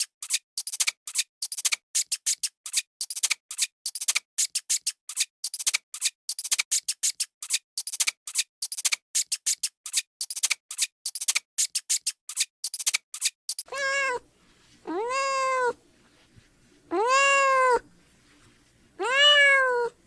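Rapid, irregular high-pitched clicking, about four to five clicks a second, that stops abruptly partway through. Then comes an animal's call, repeated four times about two seconds apart: each call is drawn out, rising then falling in pitch, and meow-like. A short fifth call closes the window.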